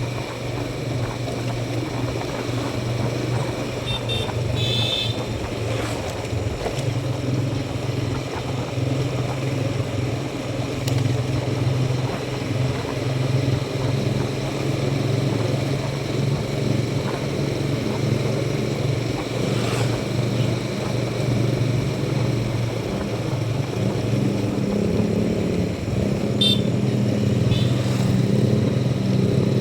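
Motorcycle engine running steadily on the ride, with road and wind noise; the engine note rises a little near the end. Two short high-pitched chirps come through, one early and one near the end.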